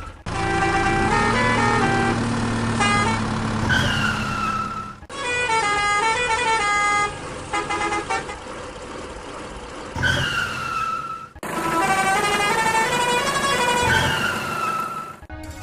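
Cartoon sound effects over a jingly tune: a short falling horn-like toot comes back several times, between stretches of quick melodic notes, with abrupt cuts between clips.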